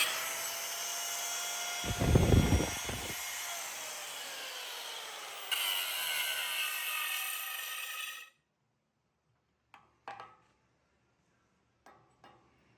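Power grinder cutting steel: a high whine over dense grinding noise, its pitch sagging as the tool bears into the metal, with a heavy low rumble about two seconds in. Past the middle it stops abruptly, and a few light clicks and knocks follow.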